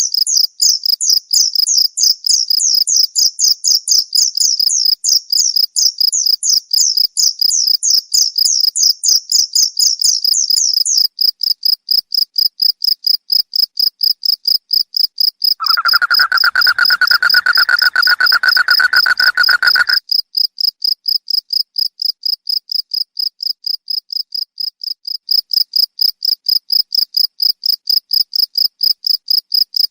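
Crickets chirping in a steady, rapid pulse. For the first eleven seconds a second, higher chirping sweeps alongside it, and a lower buzzing call joins for about four seconds near the middle.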